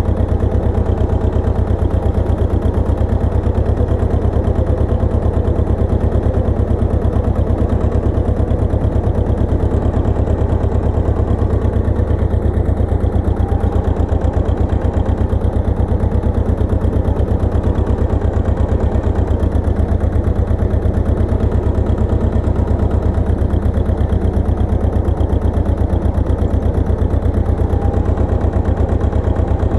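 Pasquali 980 EX two-wheel tractor's engine running steadily with a rapid, even pulsing beat.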